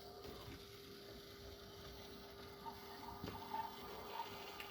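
N gauge model locomotive creeping slowly along the track: a faint steady motor hum, with a few light clicks in the second half as it runs over the track.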